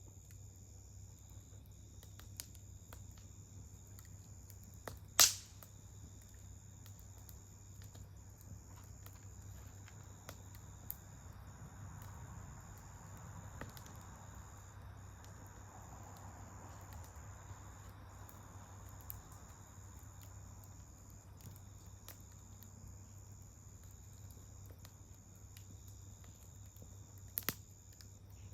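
Wood campfire crackling: small scattered crackles, with one loud pop about five seconds in and a sharp double pop near the end.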